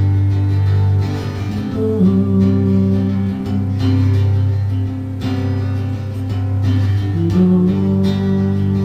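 Acoustic guitar playing sustained chords over a deep low note, changing chord about two seconds in and again near the end.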